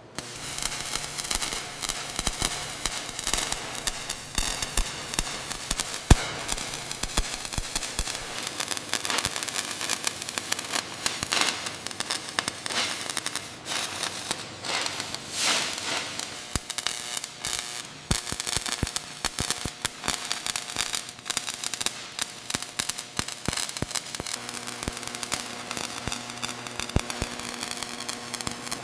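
Dense, irregular crackling and popping that goes on without a break, with a steady low hum joining about halfway through.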